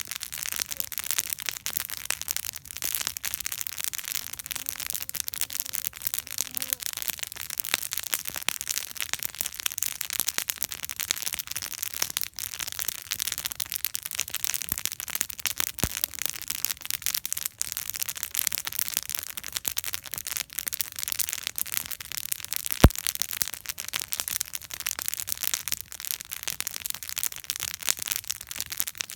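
Wood campfire burning, with continuous dense crackling and sharp pops. Two louder pops stand out, one a little past halfway and a louder one about three-quarters of the way through.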